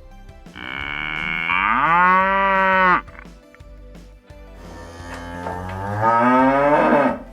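A cow mooing twice: a first long moo that rises in pitch and holds, then a second moo that swells and cuts off near the end.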